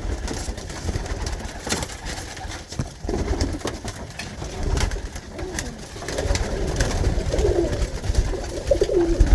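Tippler pigeons cooing in the loft, a string of low wavering coos growing more frequent from about three seconds in, with a few sharp clicks and a low rumble of handling beneath them.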